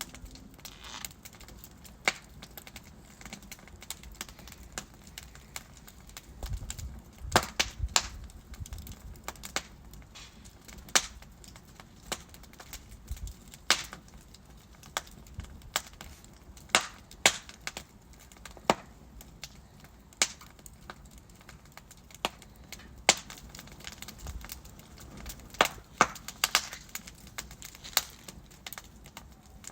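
Wood fire crackling in a fireplace, with sharp pops and snaps from the burning logs at irregular intervals over a soft low rumble of flame.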